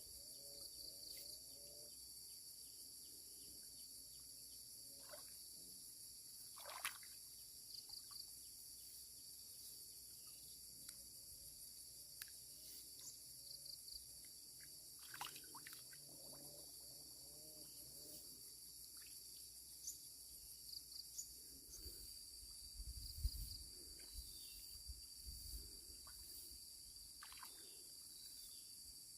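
Faint steady chorus of insects chirring in a high, shrill band, with small pulsing chirps, over scattered faint clicks and rustles.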